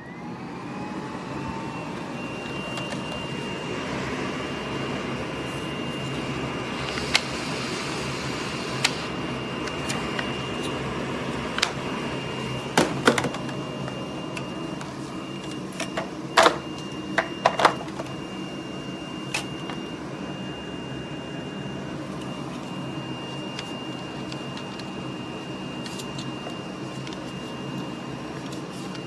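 Miele Blizzard CX1 bagless canister vacuum starting up, its motor whine rising in pitch over the first second or so, then running steadily with a high whine over a rushing of air. Sharp clicks and knocks come now and then, most of them around the middle.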